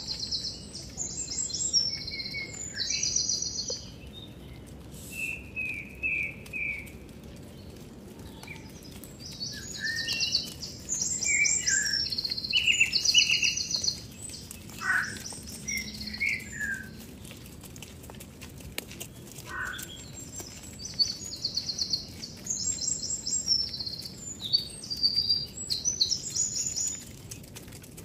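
Birds singing: bouts of high, rapid trilled phrases with lower, shorter falling notes between them, coming in three spells, about the first four seconds, from about nine to seventeen seconds, and from about twenty-one to twenty-seven seconds, over a faint steady outdoor background.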